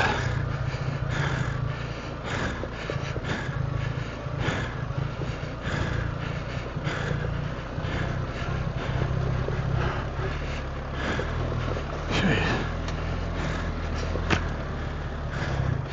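BMW R 1300 GS Adventure's boxer-twin engine running steadily at low revs, with scattered knocks and scrapes over it.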